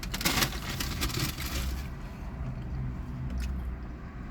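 Road traffic on a busy street passing by, heard from inside a parked car: a steady low rumble of engines and tyres, with a louder hiss in the first two seconds.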